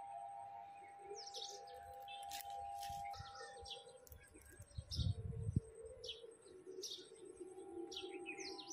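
Small birds chirping: short, high, falling chirps about once a second. About five seconds in, a brief low rumble like wind or handling on the microphone is the loudest sound, and a faint steady tone sits behind the chirps.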